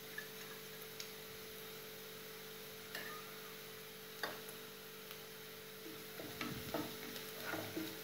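Chopped onions frying gently in oil in a nonstick kadai, a faint sizzle under a steady hum, with a few light clicks. About six seconds in, a spatula starts stirring, scraping and knocking against the pan.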